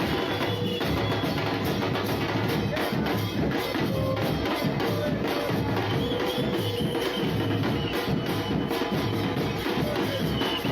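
Music with steady drumming, a continuous beat with a few held higher notes over it.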